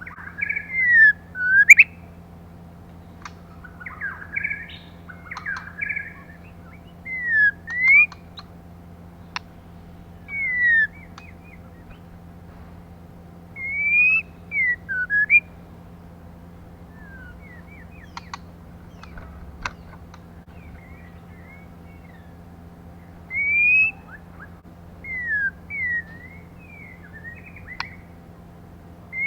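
Female white-rumped shama giving short clear whistled calls, each a quick rising or falling slur, in small groups every few seconds. This is the female shama's call, used as a lure to stir up male shamas.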